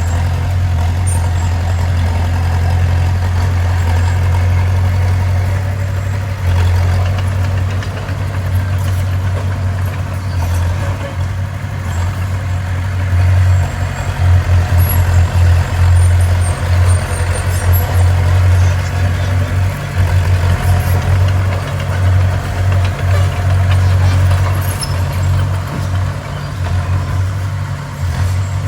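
A bulldozer's heavy diesel engine runs with a steady low rumble. About halfway through, the rumble begins to pulse louder and softer, as if under changing load.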